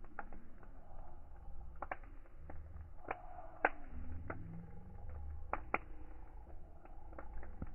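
Wood fire crackling: irregular sharp pops and snaps over a low steady rumble, with two louder pops about three and a half and nearly six seconds in.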